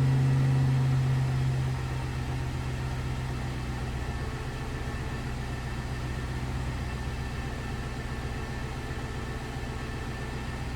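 A 2006 Jaguar XJ Super V8's supercharged 4.2-litre V8 idling steadily shortly after a cold start. The engine sound drops a little in level about two seconds in and then stays even.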